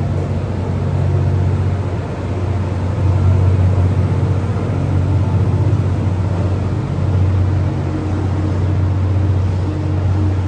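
Steady low hum of a locomotive-hauled passenger train, swelling and easing slightly, with no horn sounding.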